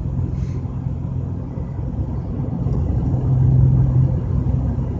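Steady low rumble of a car being driven, engine and road noise heard from inside the cabin, swelling slightly about three seconds in.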